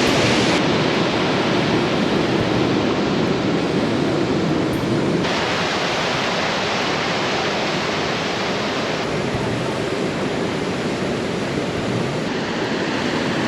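Upper Kananaskis Falls, a waterfall in heavy flow, making a loud, steady rush of water. Its tone shifts suddenly about half a second in, about five seconds in and about nine seconds in.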